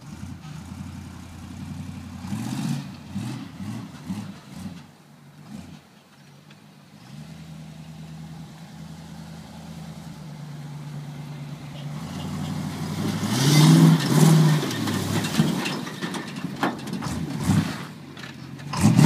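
1973 Chevy C-20 4x4 pickup's engine revving up and down in repeated bursts, settling into a steadier run in the middle. It then climbs to its loudest rev about two-thirds of the way through, with a rushing hiss over it, and surges again at the very end.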